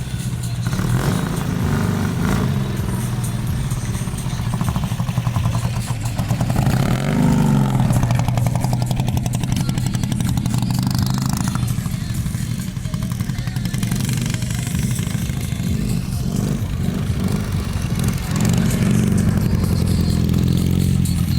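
Flat-twin motorcycle engine running, the revs rising and falling, with a clear rev-up about seven seconds in.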